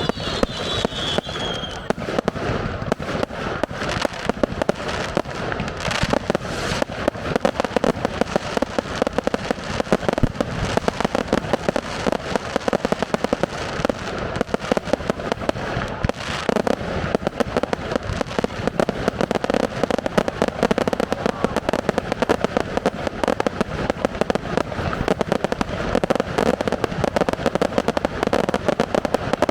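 Fireworks display: a dense, continuous barrage of bangs and crackling shells, with a falling whistle dying away about a second in.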